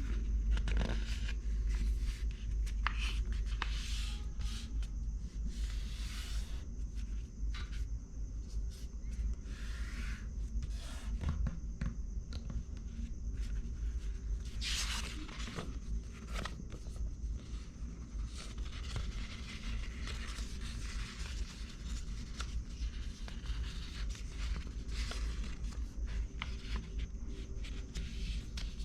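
Paper being folded and creased by hand: repeated short rustles and scrapes, over a steady low hum.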